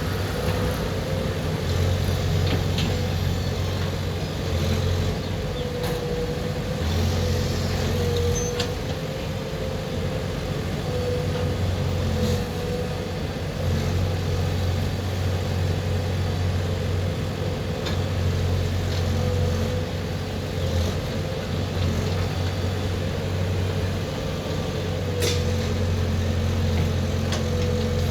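JCB 3DX backhoe loader's diesel engine running under changing load, its low drone swelling and easing every few seconds as it works, with a few sharp knocks.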